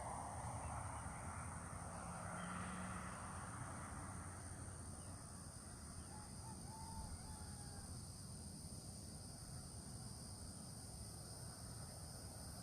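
Faint outdoor ambience with a steady high-pitched drone, and bird calls: harsh cawing in the first few seconds and a short chirp about seven seconds in.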